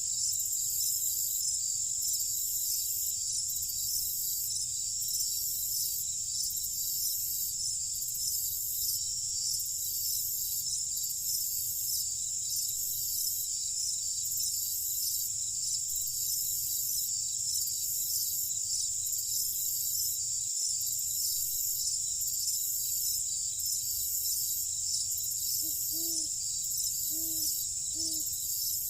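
Summer night insect chorus: crickets trilling steadily and high-pitched, with a regular pulsing in the highest layer, over a low steady rumble. Near the end a few short low calls break in, three or four in quick pairs.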